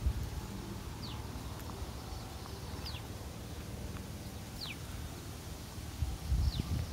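A bird calling with a short, high whistle that falls in pitch, four times about two seconds apart, over a low rumble that swells briefly near the end.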